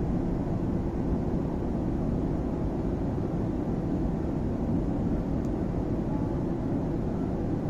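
Steady low rumble of a Class 345 electric train in motion, heard from inside the carriage.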